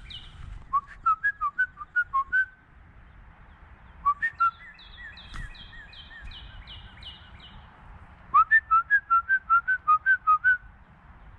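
A person whistling short, rapid runs of notes at a bird, three times, and a bird answering between them with a run of quieter, repeated downward-sliding whistled notes.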